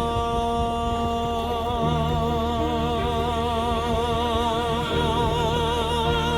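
AI-generated pop ballad: a singer holds one long note that starts steady and breaks into wide vibrato about a second and a half in, over a backing with a steady bass line.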